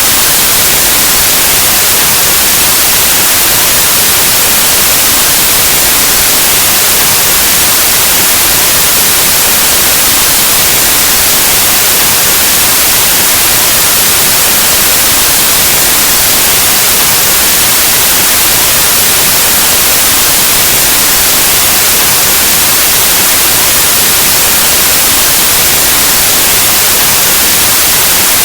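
Loud, steady white noise: an even hiss across the whole range of hearing, like the static of an untuned analog television or radio, unchanging throughout.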